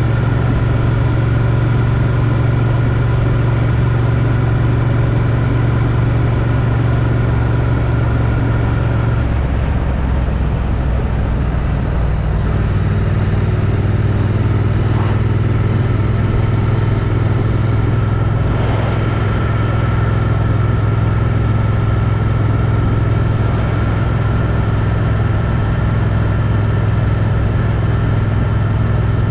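Triumph Street Twin's 900 cc parallel-twin engine, on its stock exhaust, running at steady road speed. About nine seconds in the engine note drops, and a few seconds later it settles into a new steady, lower note.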